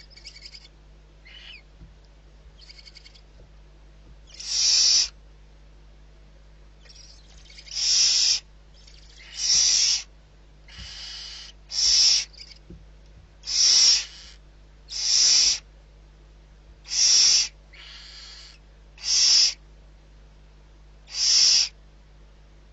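Barn owl giving a series of harsh, hissing screeches, each about half a second long, repeated every second and a half to two seconds, with a few fainter ones in between.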